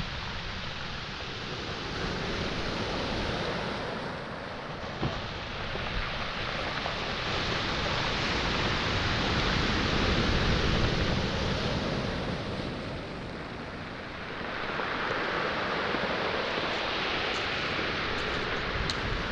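Sea waves breaking and washing up a pebble shore, the surf swelling and easing in long surges. A few sharp clicks of pebbles come near the end.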